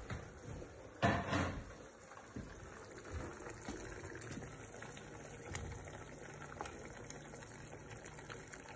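Kitchen cooking sounds: a pot of soup simmering on the stove, with a short clatter about a second in and a few light clicks after it, like a lid or utensil against the pot.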